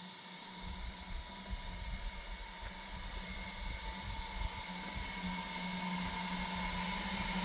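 EV DC fast charger running under charge: its cooling fans give a steady whooshing hiss, with a steady electrical hum and a faint whine over it, slowly growing louder. A low rumble joins under a second in.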